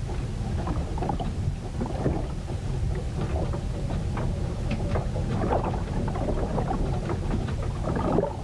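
Storm at sea heard aboard a ship: a constant low rumble with irregular splashes and crackles of water, thickest about two-thirds of the way through.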